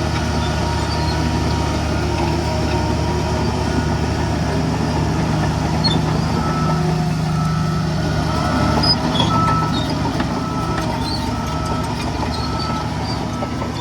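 Heavy diesel machinery running steadily at a stone-dumping site, with a reversing alarm starting about halfway through and beeping about twice a second. A few knocks come just after the beeping starts.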